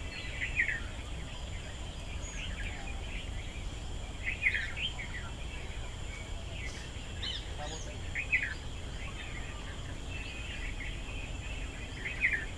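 Birds giving short chirping calls every couple of seconds, over a steady high-pitched drone and a low background rumble.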